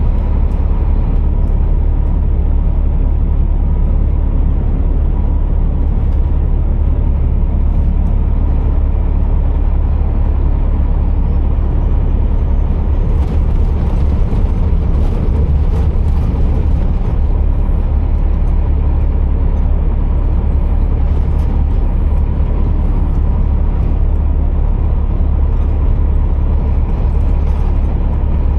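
Scania R480 truck heard from inside the cab: the steady low drone of its engine with road noise while driving.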